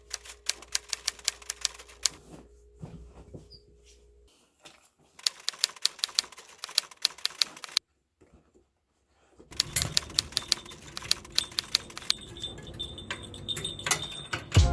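Keyboard typing: rapid key clicks in several runs, broken by a short silence about two-thirds of the way through.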